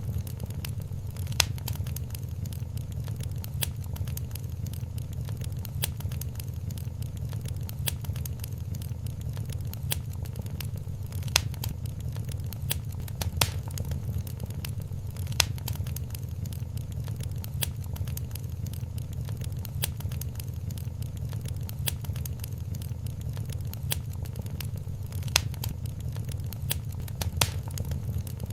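Wood fire in a fireplace crackling, with sharp pops every second or two over a steady low rumble of the flames.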